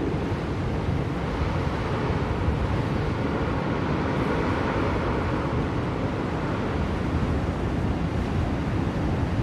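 Blizzard wind blowing steadily: a dense, even rushing noise weighted toward the low end, with no distinct events.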